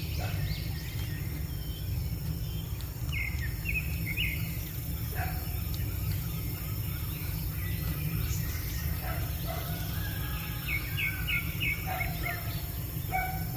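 Birds chirping in short quick runs of notes, about three seconds in and again near the end, over a steady low rumble.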